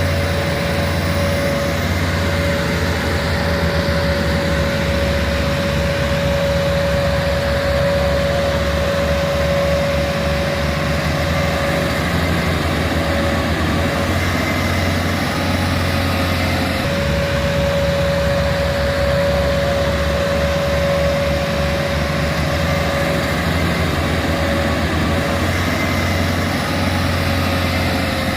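Massey Ferguson tractor's diesel engine labouring under heavy load, pulling a loaded sugarcane trolley, with a deep pulsing drone. A steady whine sits above the engine throughout, dipping briefly about halfway through.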